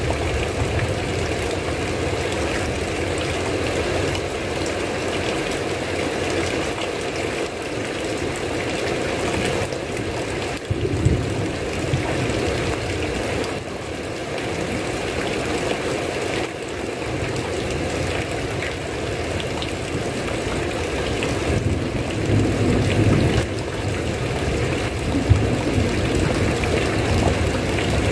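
Steady rain falling, with a few brief low rumbles now and then.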